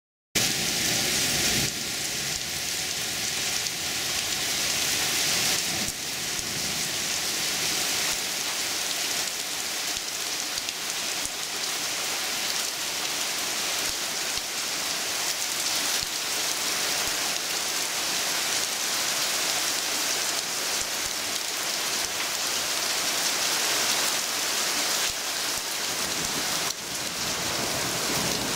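Heavy downpour of a summer thunderstorm falling steadily onto tree foliage, a dense even hiss of rain.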